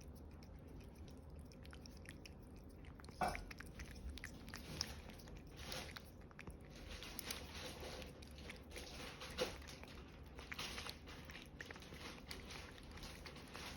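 Cat licking and chewing a CIAO Churu lickable puree treat: a quiet, irregular run of small wet smacks and clicks that starts about three seconds in.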